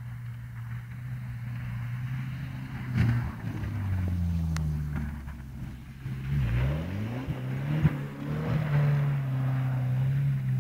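Car engine revving hard while drifting on snow, the engine note rising and falling repeatedly as the throttle is worked, growing louder as the car comes closer.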